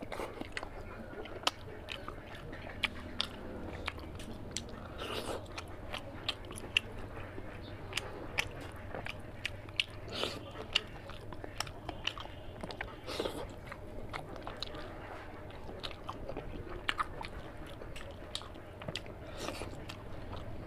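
A person eating curry with rice: chewing, biting and wet, irregular mouth clicks and smacks, with now and then a louder crunch.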